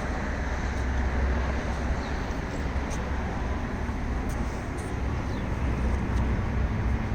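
Steady outdoor background rumble and hiss, with a few faint short high ticks about halfway through.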